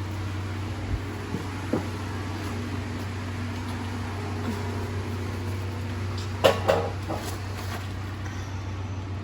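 A steady low mechanical hum, with a few light knocks and a sharper double clank about two-thirds of the way through, from engine parts and tools being handled during a diesel top-end teardown.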